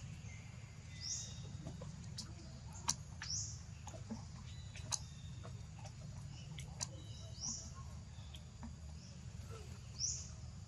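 Short, high rising animal calls repeating every two to three seconds, with a few sharp clicks between them over a steady low rumble.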